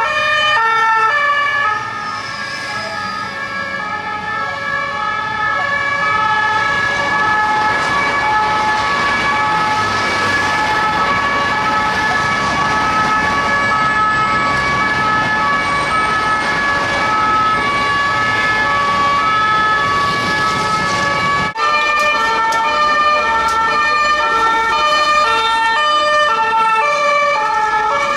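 French police two-tone sirens (deux-tons) alternating between a high and a low note, with road traffic beneath. An abrupt cut about two-thirds of the way through brings in another alternating two-tone siren.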